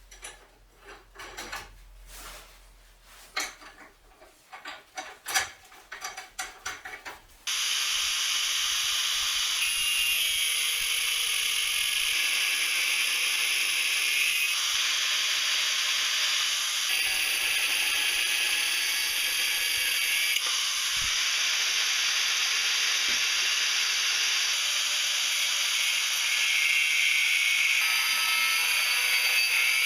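Scattered clicks and knocks of metal parts being handled, then about seven seconds in a loud, steady hissing sizzle of metal being worked starts abruptly and carries on.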